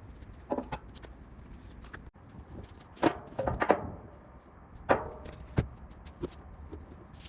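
Several irregular knocks and clatters from hands-on workshop work, about five in all, the busiest cluster around three to four seconds in, over a steady low hum.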